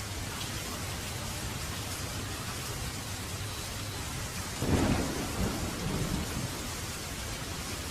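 Heavy rain falling as a steady hiss, with a thunderclap breaking in a little past halfway and rolling off over about two seconds.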